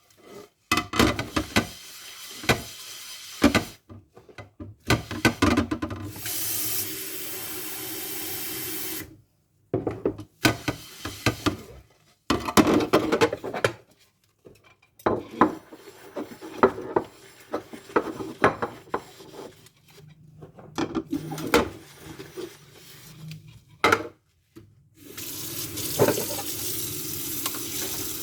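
Dishes being washed by hand at a kitchen sink: clusters of clinks and knocks as dishes are handled, with a faucet running twice, once for about three seconds partway through and again near the end.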